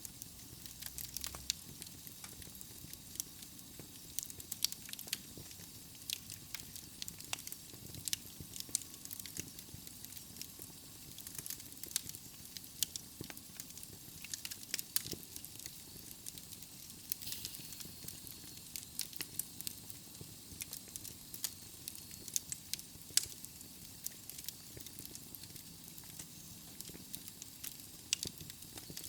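Wood fire burning in a fireplace: logs crackling and popping with many sharp irregular snaps over a soft steady hiss.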